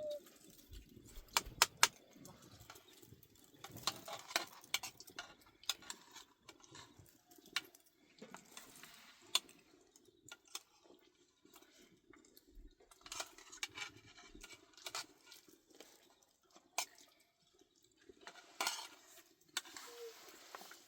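Scattered light clinks and knocks at irregular intervals, over a faint steady low hum.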